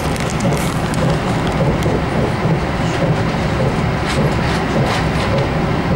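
Passenger train running along the track, heard from inside the carriage: steady wheel-and-rail running noise with a few faint clicks.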